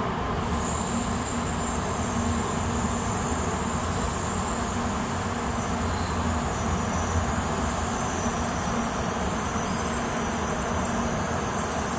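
N700-series Shinkansen train running along the station tracks: a steady rumble and rush of wheels and cars, with a thin high whine above it from about half a second in.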